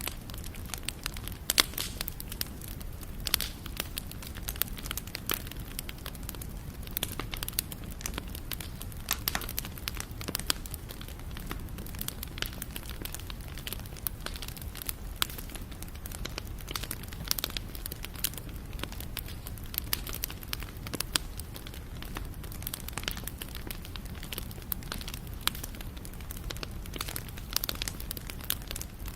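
Wood fire burning, with dense irregular crackles and pops over a low steady rumble.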